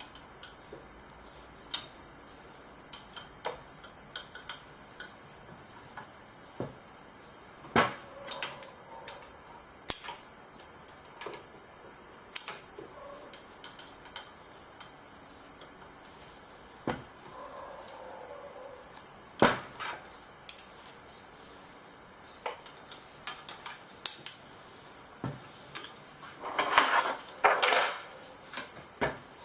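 Small metal parts and hand tools clinking and knocking in irregular, separate clicks, with a short burst of rattling near the end.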